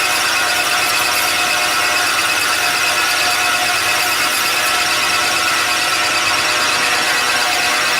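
Metal lathe turning down a diameter on the workpiece: a steady, loud cutting noise with several high whining tones over it, running without a break.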